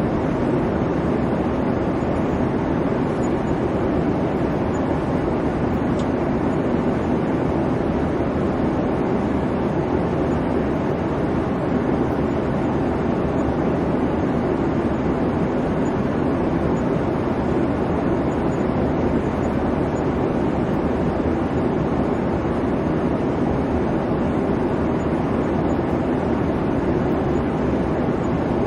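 Airliner cabin noise: a steady, even low rumble and hum of the engines and airflow, without change.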